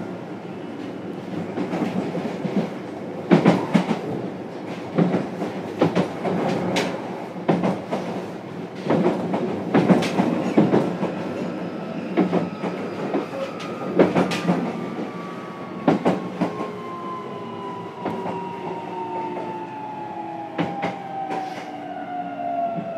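Interior running sound of a JR Kyushu 303 series electric train, heard in a motor car: the wheels clack over rail joints at uneven intervals of one to two seconds. From about three-quarters of the way in, the traction motor whine falls steadily in pitch as the train slows.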